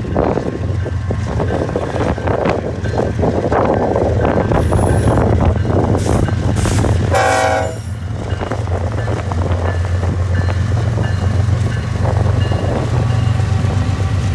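Diesel locomotives of a freight train rumbling steadily as they pass close by. About seven seconds in, as the lead unit draws alongside, there is a short blast of the locomotive's multi-note horn.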